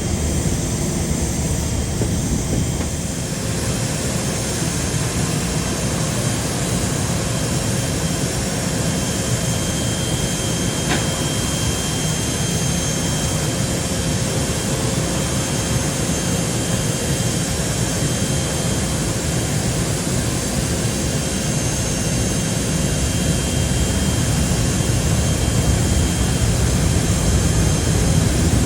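Emirates Airbus A380's four jet engines running: a steady roar with a thin high whine through it, growing slightly louder near the end.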